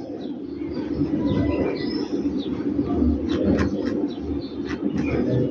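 Birds cooing, with short chirps mixed in.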